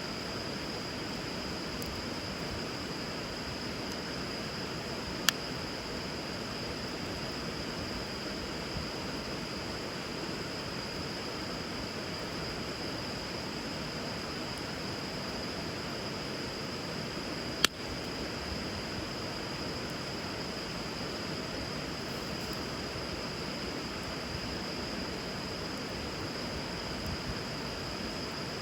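Wood bonfire burning on a river: a steady rush of running water with a thin high note over it, and two sharp pops from the fire, about five seconds in and again near eighteen seconds.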